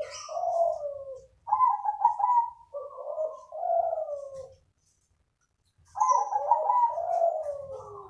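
Crossbred zebra dove (perkutut) cooing in its rhythmic, multi-note song, several phrases in a row with a pause of about a second midway.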